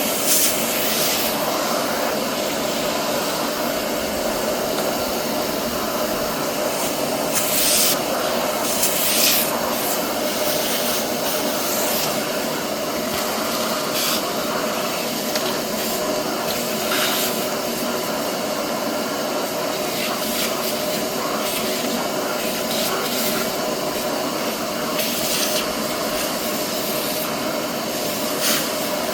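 A steady, loud rushing noise from a running motor, with a few brief louder flares.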